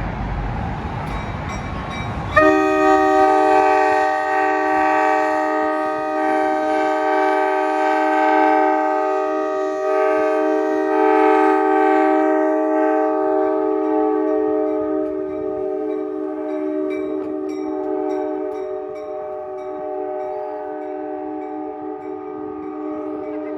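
Rushing noise for about two seconds, then an NJ Transit ALP-46 electric locomotive's multi-tone air horn sounds a chord and holds it unbroken for about twenty seconds, easing down slowly toward the end.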